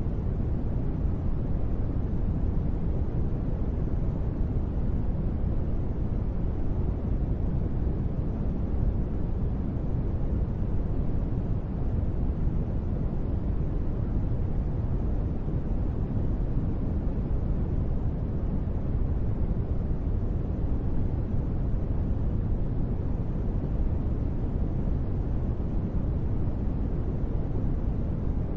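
Steady, deep noise without breaks or changes. Its sound is weighted heavily toward the low end with little hiss on top: a sleep white-noise track billed as gentle rain.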